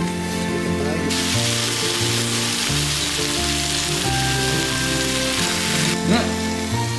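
Background music throughout, with slices of pork belly and kimchi sizzling as they fry in a griddle pan. The sizzling starts abruptly about a second in and cuts off about six seconds in.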